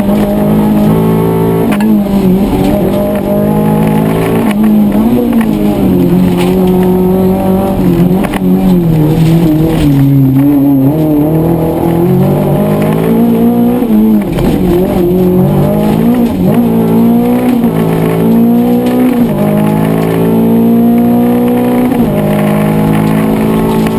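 Rally car engine at full throttle, heard from inside the stripped cabin: the engine note climbs, drops sharply at each gear change or lift for a corner, and climbs again, over and over every few seconds.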